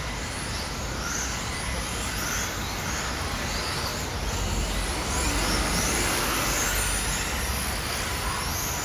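Remote-control cars racing: their motors give short high whines that rise in pitch again and again, about once a second, as the cars accelerate. A steady low rumble runs underneath.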